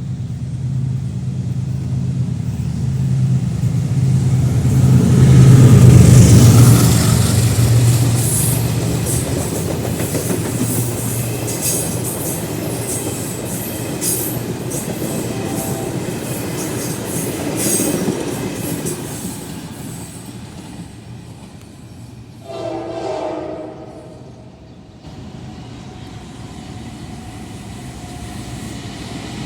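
A General Electric diesel locomotive's engine drones, loudest about six seconds in as it passes. The train's wheels then click over the rail joints, and about 22 seconds in a train horn sounds for about two seconds.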